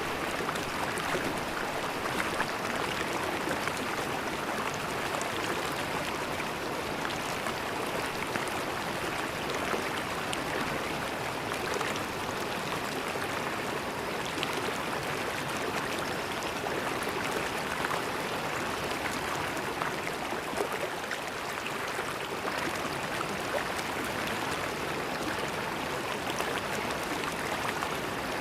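River water flowing and gurgling steadily over stones, a dense even rush with small splashes throughout.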